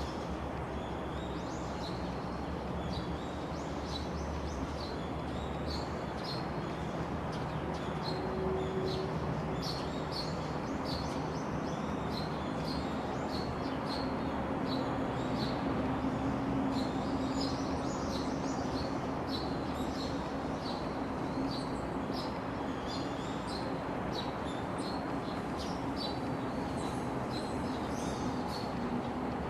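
Small birds chirping: many short, high chirps come one after another over a steady background noise, with a faint low hum in the middle.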